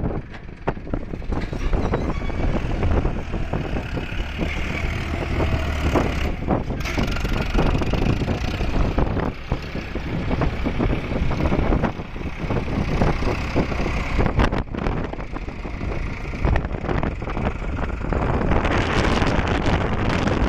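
Farmtrac 60 tractor's diesel engine running hard at full power, its loudness rising and falling.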